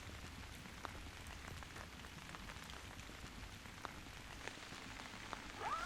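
Faint, steady rain falling, with scattered single drops ticking louder now and then.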